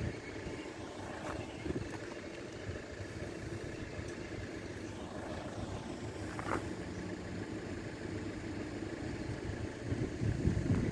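Steady low hum of a standing vehicle, with a short brief sound about six and a half seconds in.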